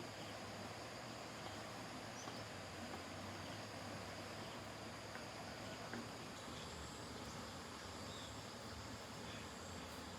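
Faint outdoor ambience of insects, a steady high-pitched chorus with no breaks.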